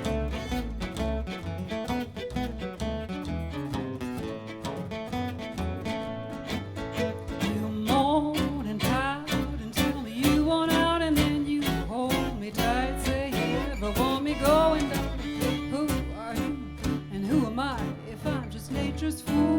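Instrumental break of a country band: acoustic guitar strumming chords over a bass line, with a lead melody instrument taking a solo from about eight seconds in.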